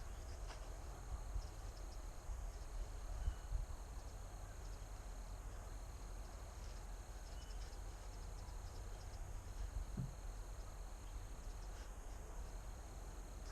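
Quiet outdoor ambience: a steady high insect chirring over a low rumble, with a couple of soft knocks.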